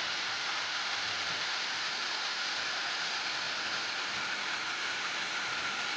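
Creek water rushing and cascading in a steady, even rush.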